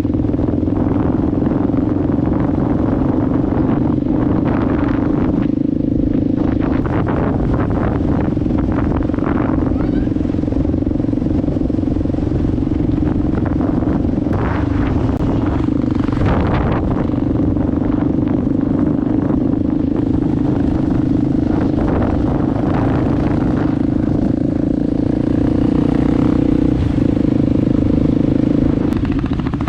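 Enduro motorcycle engine running at a steady speed while riding, a constant drone with wind noise and scattered knocks and clatter throughout.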